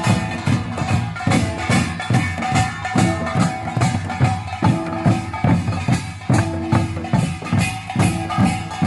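Samul nori percussion ensemble playing: drums beat a fast, steady rhythm under the clanging and ringing of small and large gongs.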